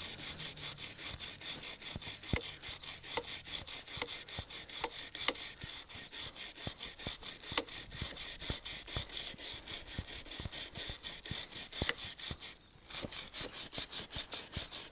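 Brush scrubbing a paraffin-soaked motorcycle chain in quick back-and-forth strokes, several a second, scraping off black grime, with a brief pause about two seconds before the end.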